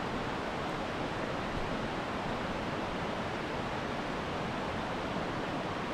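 Steady rush of falling water from a mountain creek's waterfalls, an even unbroken noise.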